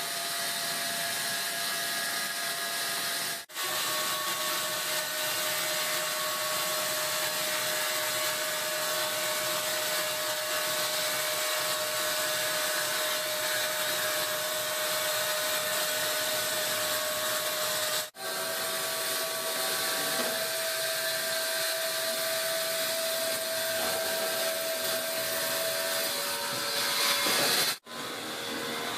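Electric power tool running steadily as it works wood: a constant whirring noise with a steady high whine through it. It breaks off sharply for an instant three times.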